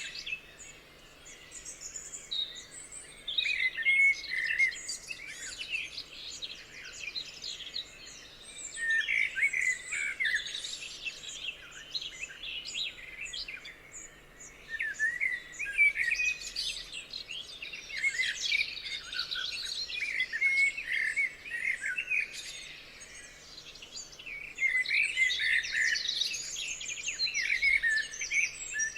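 Several birds singing at once, a dense mix of overlapping chirps, whistles and trills, with busier bursts of song about 4, 10, 18 and 25 seconds in.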